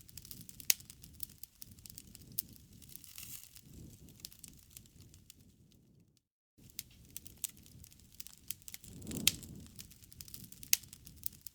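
Campfire crackling: irregular sharp pops and snaps of burning wood over a soft low rush of flame. It cuts out to silence for about half a second a little past the middle, then resumes.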